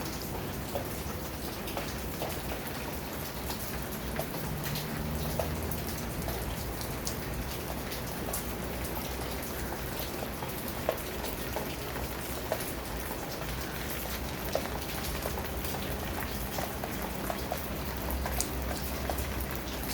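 Steady rain falling, an even hiss with individual drops tapping sharply on surfaces throughout.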